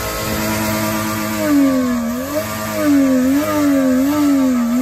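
Lexus GS sedan's engine held at high revs. Its pitch holds steady, then wavers up and down several times as the throttle is worked.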